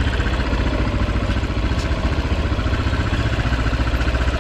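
Crossfire HJ 250 motorcycle engine running steadily with a fast, even pulsing rumble.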